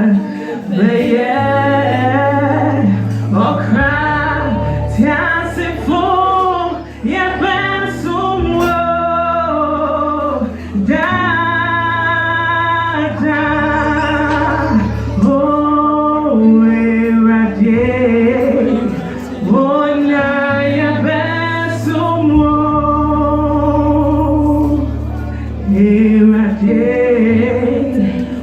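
Choir of mixed male and female voices singing a Twi gospel song, over steady sustained bass notes.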